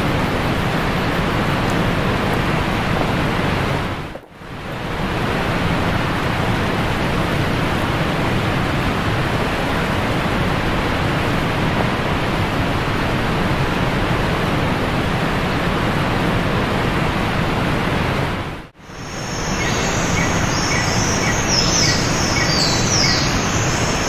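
Creek water rushing steadily over rocks, dipping out briefly twice. Over the last few seconds a small bird sings a series of short, high notes.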